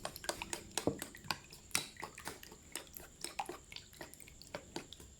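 A kitchen utensil clinking and tapping against a bowl in irregular clicks, a few a second, as food is mixed.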